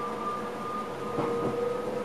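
Electric passenger train heard from inside the driver's cab: a steady traction whine in two tones, rising slowly in pitch as the train gathers speed, over running noise. Two soft knocks come a little past halfway.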